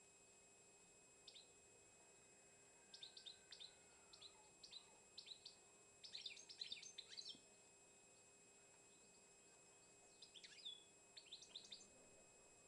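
Songbird chirping faintly: short, high chirps in scattered runs, densest about halfway through and again near the end, over a faint steady hum.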